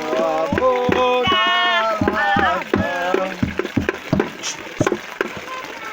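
A voice singing long, high, wavering held notes for about the first three seconds, over sharp splashing clicks of water. The singing stops about halfway through, leaving the splashing.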